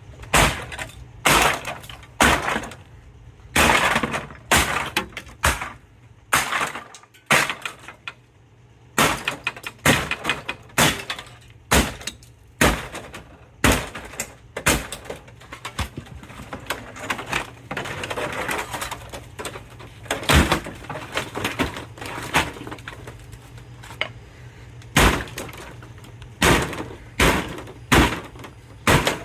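Plastic casing of a Sony 55-inch LED TV cracking and snapping as it is pried and broken apart: many sharp cracks and knocks, irregularly about one or two a second, with a longer stretch of crackling about eighteen seconds in.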